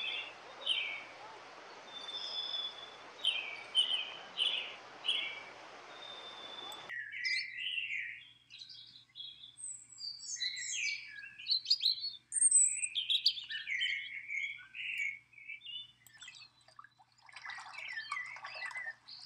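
Songbirds chirping and singing. For the first several seconds short chirps repeat over a steady hiss. About seven seconds in the hiss cuts off abruptly, and a faster, more varied warbling song follows.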